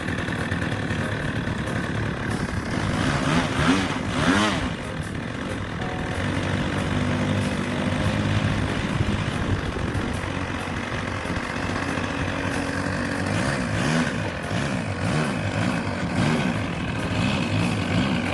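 Nitro-fuelled OS 1.20 AX two-stroke model-airplane engine running, mostly steady, with its pitch rising and falling in stretches near the start and again in the second half.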